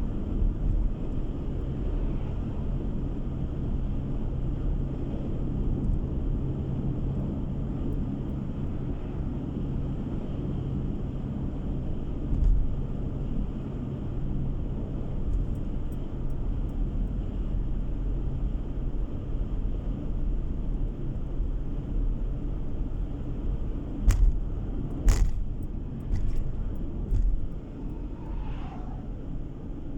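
Road and engine noise of a moving car heard from inside the cabin: a steady low rumble, with a steady hum through the first half. Two sharp knocks about a second apart come near the end.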